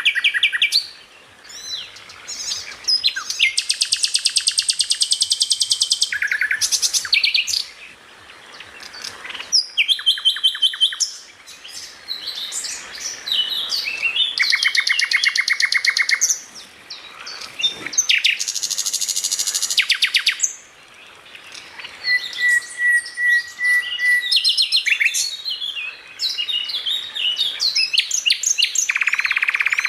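Songbirds singing in a busy, continuous medley of rapid repeated trills, buzzy rattling phrases and sharp chirps, with one steady whistled note held for about two seconds a little past the middle.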